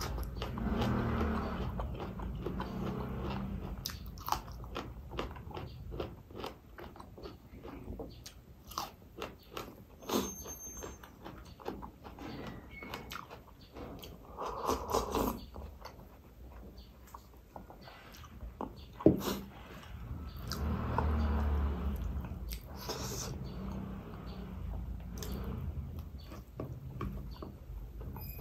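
Close-miked mouth sounds of eating: crunching a raw cucumber slice and chewing rice, with a slurp of lentil soup (dal) drunk straight from a glass bowl around the middle. One sharp knock stands out a little after two-thirds of the way through.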